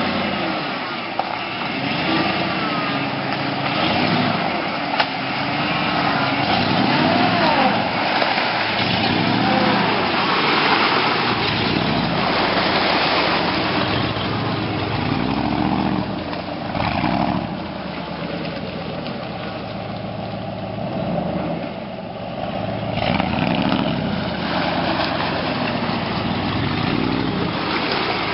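1988 Ford F-150's 302 (5.0 L) V8 engine running and repeatedly revving up and down. Two short sharp knocks come about one and five seconds in.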